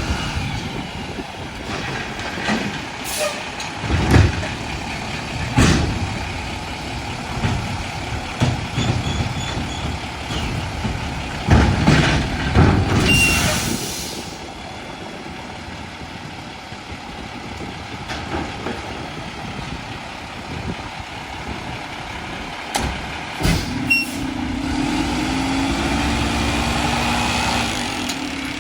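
Mack LR McNeilus garbage truck running. A series of sharp knocks and clanks comes through the first half, with a burst of air hiss about 13 seconds in. Near the end a steady engine and hydraulic hum comes up.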